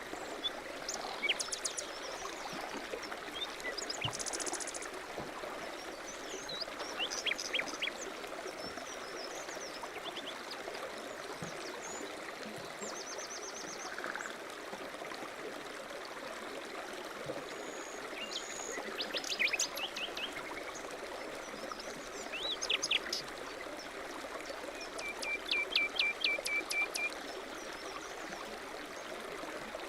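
A stream running steadily, with birds chirping and giving quick trills over it every few seconds; the longest run of rapid notes comes near the end.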